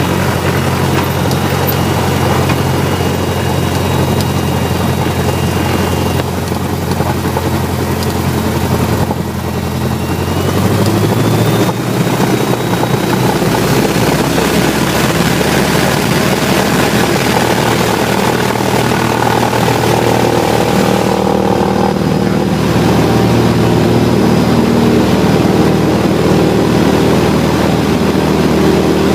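Light propeller aircraft's engine running steadily, then growing louder with a shift in pitch about eleven seconds in as power comes up for takeoff, and holding at that higher power.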